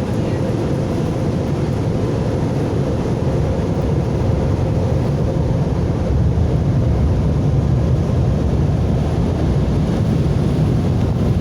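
Automatic car wash tunnel equipment running, heard from inside the car: a steady loud rush over a deep rumble, growing a little louder about halfway through.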